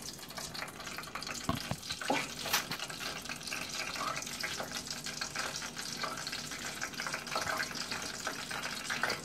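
Chicken pieces frying in oil in a pot, a steady crackling sizzle of oil that is only moderately hot, with a few sharp knocks about two seconds in.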